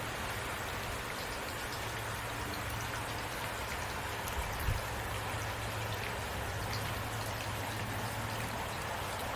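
Steady rain falling, an even hiss with fine patter of drops, over a steady low rumble. One brief low thump comes about halfway through.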